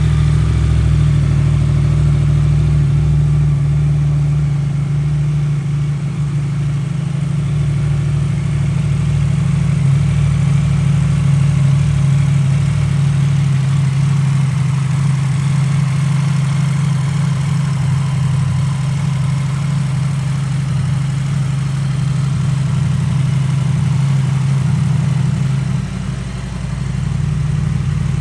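Yamaha MT-10's 998cc crossplane inline-four idling steadily through an Akrapovic exhaust, with a brief dip in level near the end.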